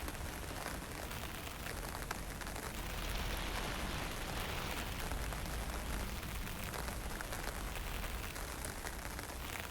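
Wind and light drizzle: a steady hiss of fine rain with scattered drop ticks over a low wind rumble. The rumble swells about three seconds in and eases after about six.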